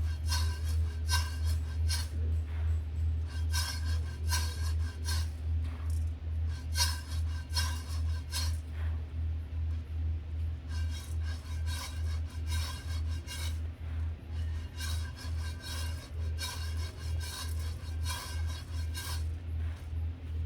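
Coffee beans being roasted, scraping and rattling in short repeated strokes as they are stirred or turned, over a steady low hum that pulses a few times a second.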